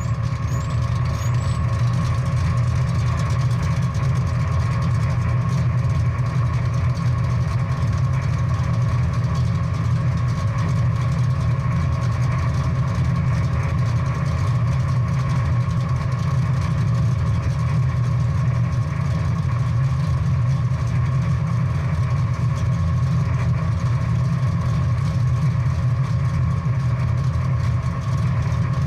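Big-block V8 muscle car engine idling steadily, its sound sitting mostly in the low range.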